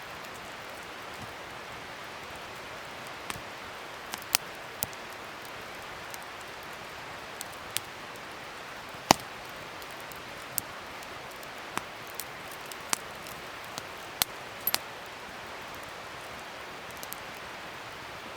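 Wood fire burning with a steady hiss and irregular sharp crackles and pops, the loudest about nine seconds in.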